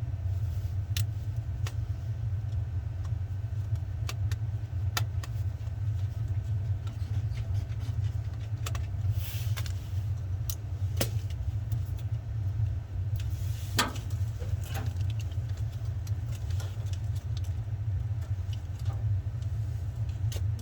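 Small metallic clicks and taps scattered irregularly, from a flathead screwdriver working the thermostat wire terminal screws on a furnace control board, over a steady low rumble.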